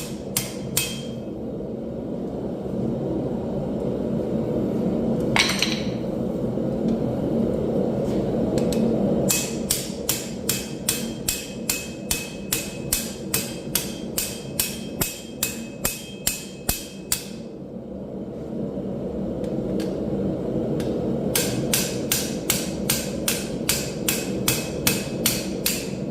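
Hand hammer striking hot railroad steel on an anvil in steady runs of about two to three blows a second, each blow ringing briefly. The runs are broken by pauses, and a steady low rushing noise continues underneath.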